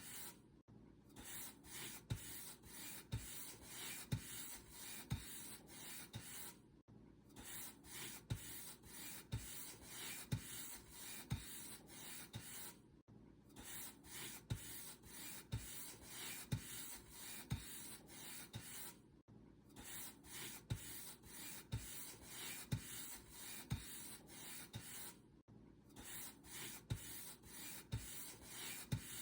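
Paintbrush bristles stroked back and forth across a surface, a scratchy brushing hiss at about two strokes a second with a soft low thump on each stroke, pausing briefly about every six seconds.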